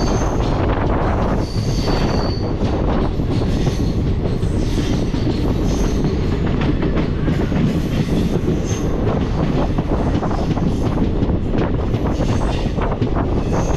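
Moving train running on the rails: a loud, steady rumble and clatter of wheels on track, with a brief high wheel squeal about two seconds in.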